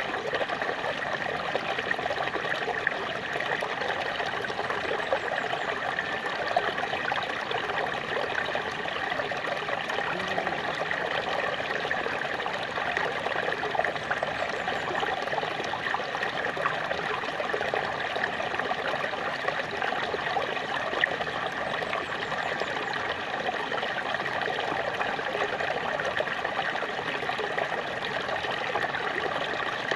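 Small waterfall splashing and trickling steadily.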